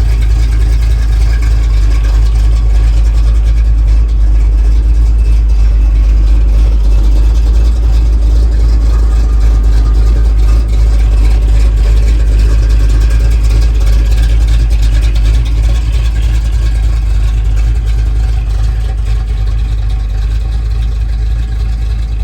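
1975 Chevy C10 pickup's engine running steadily with a heavy low rumble.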